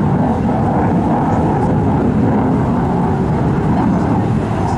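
Steady, loud rumble of an aircraft in flight, with no clear pitch.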